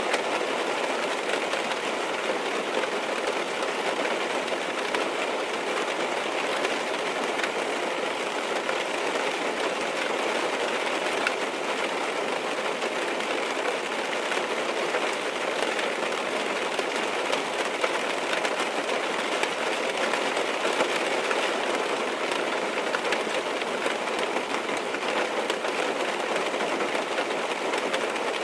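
Steady rain falling on a car's roof and windows, heard from inside the cabin as an even, unbroken patter.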